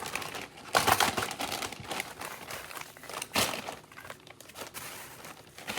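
Plastic zip-top bags crinkling and rustling as they are handled, with louder crackles about a second in and a sharp one a little past the middle.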